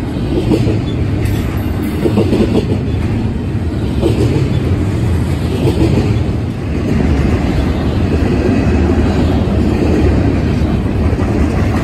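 Double-stack intermodal freight train's container well cars rolling past, a steady low rumble.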